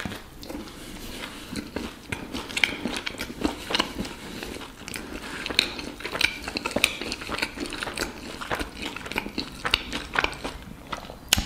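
A person chewing a mouthful of fried fish sandwich in a soft bread roll, with irregular wet clicks and smacks of the mouth.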